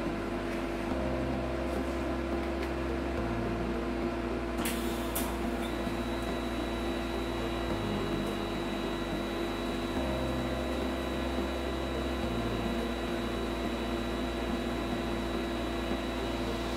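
TIG welding arc on a stainless steel tube: a brief crackle as the arc strikes about five seconds in, then a steady high whine over a low hum while the weld runs.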